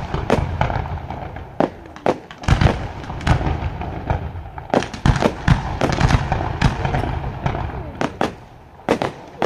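Fireworks display: an irregular run of sharp bangs and cracks, many coming close together, with the loudest reports in the middle and one more near the end.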